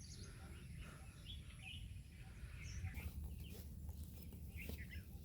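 Faint scattered bird chirps over a low steady rumble.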